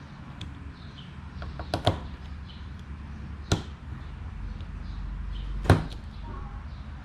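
Sharp knocks of tools and parts being handled during repair work, three loud ones about two seconds apart and a few lighter ticks, over a steady low hum.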